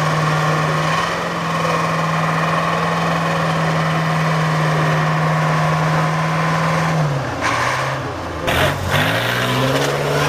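Off-road trial truck engine held at steady revs, then falling away about seven seconds in with a couple of knocks, and revving back up near the end.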